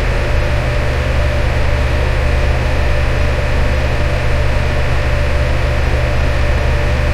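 Electric fan running steadily: a constant rush of moving air over a low motor hum, with a faint steady whine.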